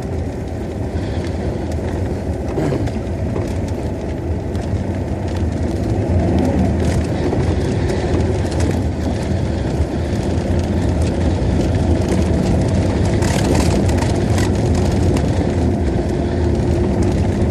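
Inside the cabin of a VAZ classic (Lada Zhiguli) driving on a snow-covered road: a steady engine hum with road and tyre noise, getting louder about six seconds in as the car speeds up.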